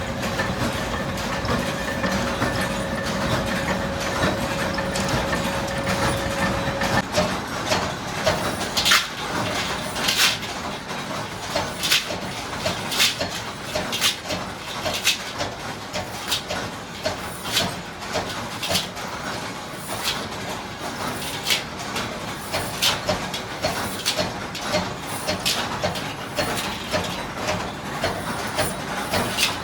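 Chain-factory machinery running: a steady machine hum with a held tone that stops about seven seconds in, then sharp repeated clacks about once a second with lighter ticks between.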